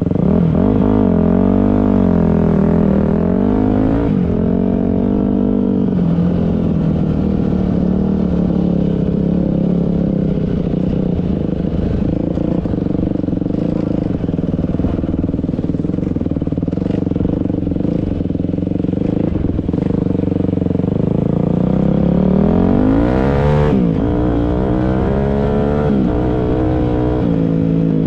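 Dirt bike engine running while riding, its pitch rising and falling with the throttle. It holds fairly steady through the middle, then revs up sharply about three-quarters of the way in and drops back.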